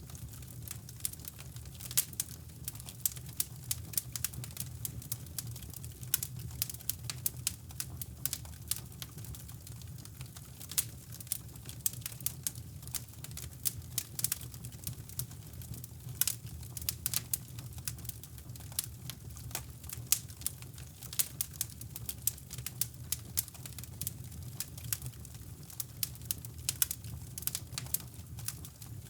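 Wood fire crackling in a fireplace: irregular sharp pops and crackles, over a steady low rushing brown noise.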